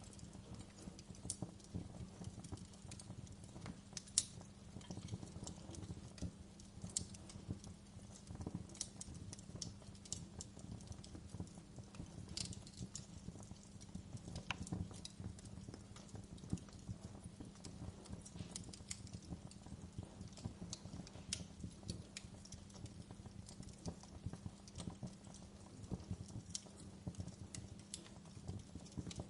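Wood fire crackling: irregular sharp pops and snaps over a low, steady hum of the burning fire.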